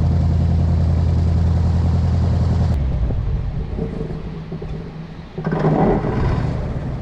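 An airboat's big engine and propeller running steadily with a loud low drone, cutting off abruptly about three seconds in. A quieter, irregular noise follows, with a brief louder rushing burst near the end.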